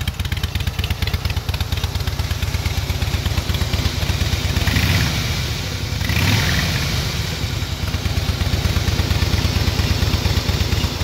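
Harley-Davidson Softail Deluxe V-twin idling with a steady pulse through its stock factory exhaust. The throttle is blipped twice, about four and a half and six seconds in.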